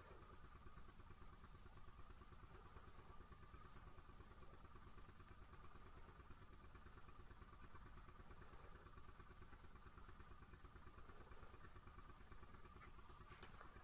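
Near silence: a faint steady hum, room tone.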